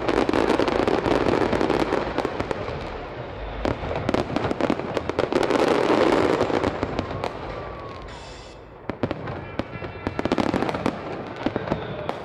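Fireworks display: a rapid barrage of bangs and crackles over a continuous rumble, heaviest in the first two seconds and again about six seconds in, then thinning to scattered bangs.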